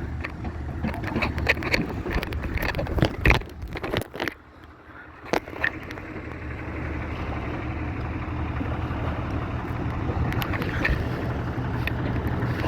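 An engine running steadily at low speed, with clanks and knocks over the first few seconds, a brief quieter gap around four seconds in, then steady running noise that grows slowly louder.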